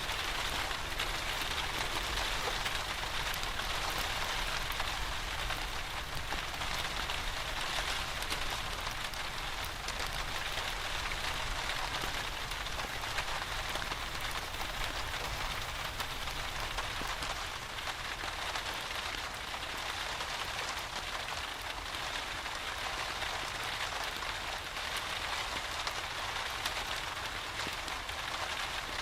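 Steady rain falling on a surface, an even unbroken hiss with scattered sharp ticks of individual drops.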